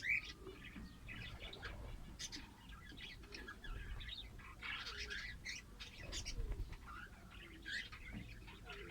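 Lovebirds chirping and chattering in a continuous run of short, high calls.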